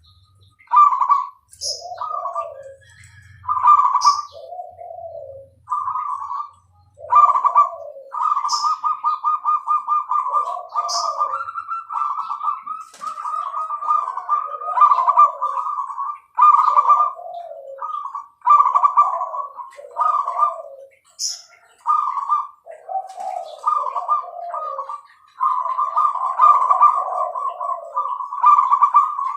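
Zebra dove (Bangkok perkutut) cooing over and over in rhythmic phrases, each a quick run of notes.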